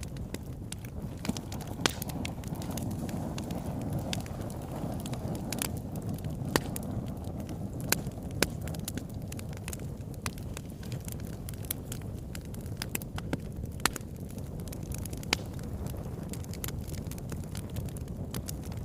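Wood fire in a fireplace burning with a steady low rush of flame and irregular sharp crackles and pops, a few standing out louder than the rest.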